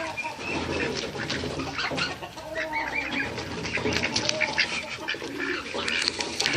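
Backyard poultry, chickens and ducks together, calling over one another in many short, overlapping clucks and calls.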